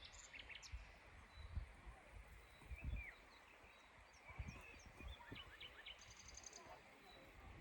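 Faint birdsong: several small birds chirping and twittering in short notes, with a quick trill of repeated notes near the end, over scattered low rumbles.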